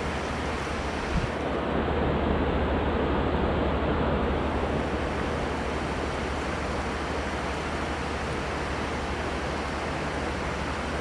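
Steady rushing of river water, a little louder for a few seconds, with a single short knock about a second in.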